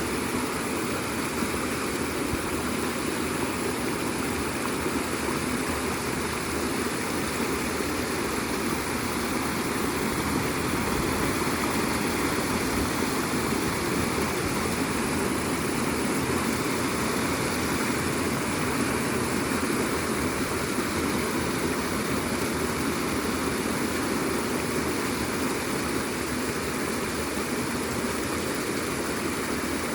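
Floodwater rushing steadily, a continuous even roar of fast-flowing water overflowing after heavy rain.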